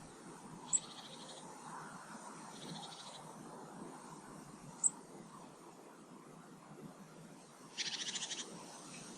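Small garden birds calling: two sharp, high single notes about four seconds apart, short buzzy trills, and a louder rattling trill near the end.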